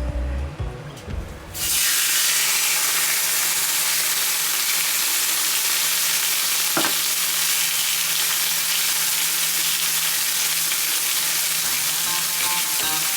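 Steak sizzling steadily on a thick 6 mm iron griddle plate. The sizzle starts suddenly about a second and a half in, as the meat meets the hot iron, and there is a single sharp click partway through.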